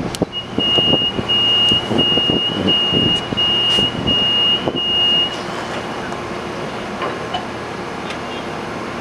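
A train at a station platform: low hum with irregular knocks and rattles, while a high electronic warning beep repeats about seven times in quick succession over the first five seconds. After the beeps it settles to a steady rumble.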